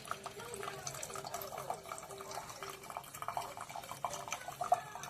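Elite Gourmet EHC114 single-serve coffee maker brewing: hot water gurgling and sputtering, with irregular pops and drips.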